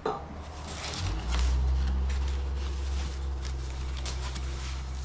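Clicks and knocks from the melting furnace's accessories and packaging being handled, with a steady low hum that starts about a second in.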